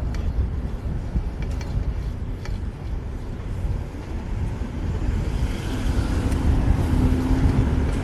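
City road traffic heard from a moving bicycle, with a heavy low rumble from wind on the microphone. Traffic grows louder about two thirds of the way in, where a steady vehicle hum joins it.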